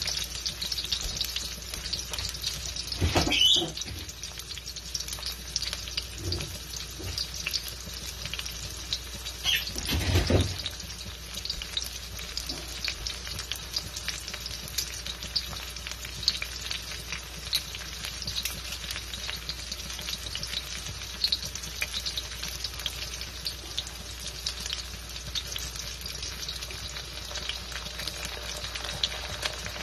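Sliced red onions frying in oil in a wok, a steady crackling sizzle, with two louder brief knocks about three and ten seconds in.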